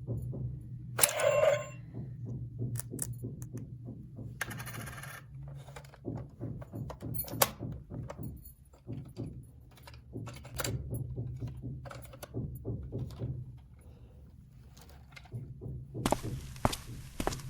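Plastic dollhouse toy pieces being handled, with a run of irregular light clicks and knocks over a low steady hum, and a short louder burst about a second in.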